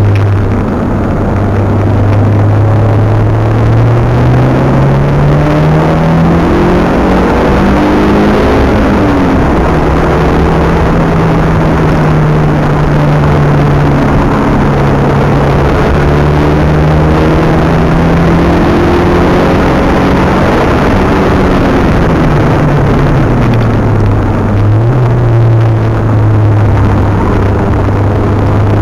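Mitsubishi Galant VR-4's engine heard from inside the cabin under hard driving: the revs climb in the opening seconds, drop sharply at a gear change about nine seconds in, hold fairly steady through a long stretch, then fall away about twenty-three seconds in and climb again near the end. Road and wind noise lie under it.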